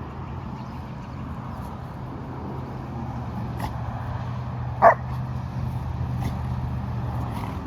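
A golden retriever gives one short, loud bark about five seconds in, with a few fainter short dog sounds around it, over a steady low hum.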